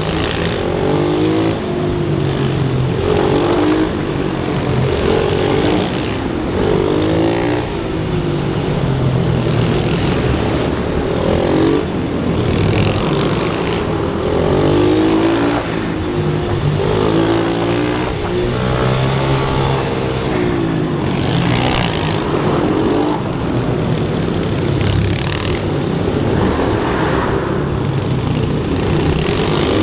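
Small single-cylinder motorcycle engine of a pit bike being ridden hard round a track: the revs climb and drop again every couple of seconds through the gears and corners.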